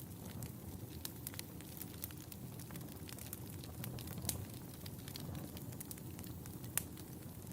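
Wood fire in a fireplace crackling: irregular sharp pops and snaps over a low steady rumble of the flames, with two louder pops about four and seven seconds in.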